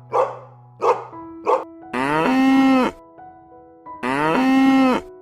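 An animal gives three short barking calls, then two long drawn-out calls of about a second each, over background music.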